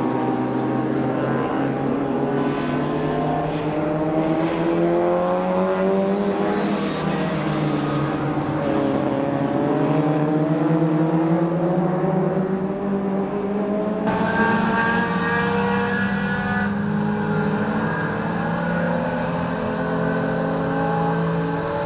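Mini racing car's BMC A-series four-cylinder engine at full throttle, its note climbing through the revs and dropping at each gear change, several times over.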